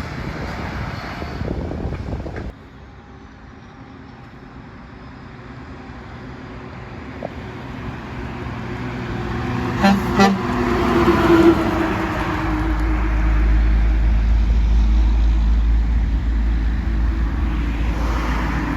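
A truck approaching and passing, its engine growing steadily louder. It gives two short horn blasts about ten seconds in, then a heavy low rumble follows as it goes by. Wind noise on the microphone fills the first couple of seconds and cuts off suddenly.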